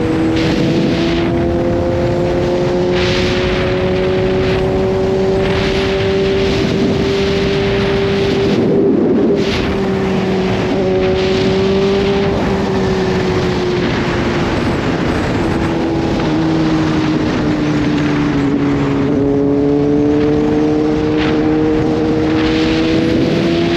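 Kawasaki Z H2's supercharged inline-four engine running under light throttle. Its note climbs slowly, breaks briefly about nine seconds in, eases down over several seconds and then climbs again near the end, with wind rushing past.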